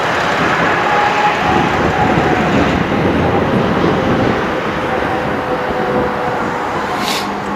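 2009 Sterling Bullet bucket truck running, a steady dense mechanical noise with faint steady tones through it, and a brief hiss about seven seconds in.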